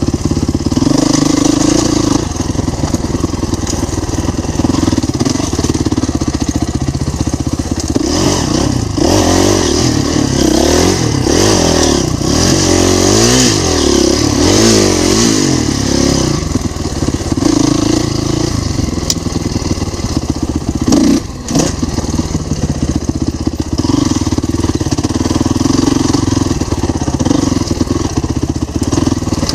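Dirt bike engine running on a trail under changing throttle, with the pitch rising and falling repeatedly as it revs up and down about a third of the way in.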